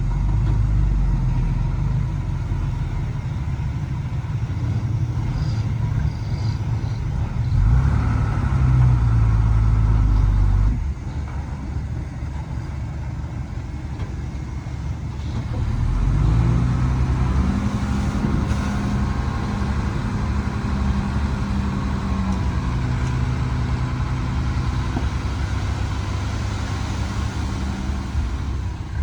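Heavy diesel engine running under load, revving up about a quarter of the way in and dropping back suddenly a few seconds later, then revving up again a little past the middle and holding there for several seconds.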